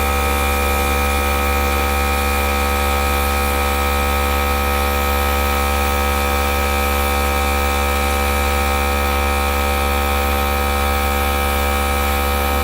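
Small electric air gun running steadily: a constant, even motor hum with no change in pitch.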